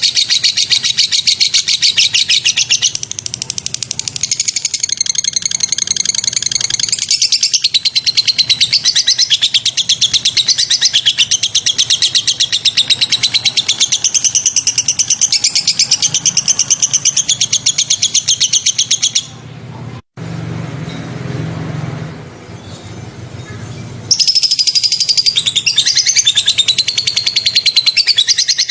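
Recorded songbird song of very rapid, sharp repeated chirps and trills, high-pitched and loud. About two thirds of the way in, the song breaks off for several seconds and only a low hum and hiss is left, then the rapid chirping resumes.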